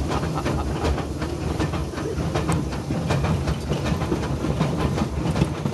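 Train in motion: a steady low rumble with frequent clicks and clanks of metal.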